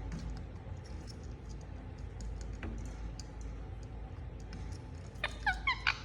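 Indian ringneck parakeet giving a quick run of four or five short chirps near the end, each a fast slide in pitch. Before that, scattered faint clicks and ticks over a steady low hum.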